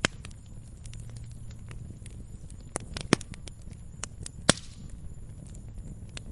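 Wood fire crackling in a fireplace: a low steady rumble of flames with scattered sharp pops and ticks, the loudest just at the start, two around three seconds in and one about four and a half seconds in.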